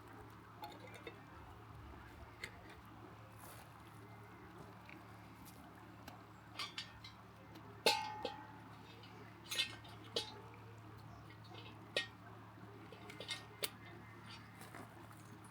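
Kitchenware being handled: scattered light clinks and knocks, the loudest about eight seconds in with a short ring, over a faint low steady hum.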